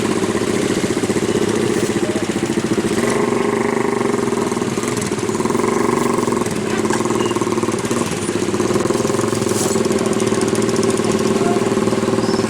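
A large vehicle engine running steadily at idle, its note dipping slightly a few times.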